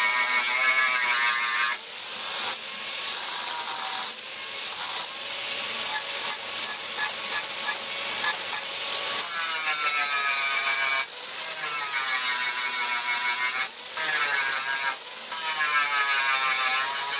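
Power grinder working steel: a motor whine that sags in pitch and recovers as the tool bites, alternating with stretches of rough grinding noise, broken off abruptly several times.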